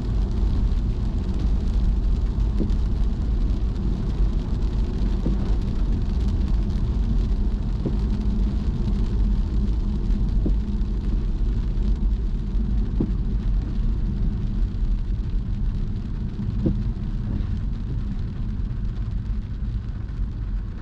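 Car driving on a wet road after rain: a steady low rumble of engine and tyres with road hiss. A faint short tick comes about every two and a half seconds.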